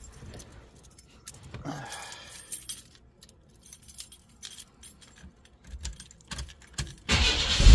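Keys jangling with scattered clicks and knocks of handling, then near the end a 1994 S10 Blazer's 4.3-litre V6 is cranked and fires on a cold start, suddenly loud.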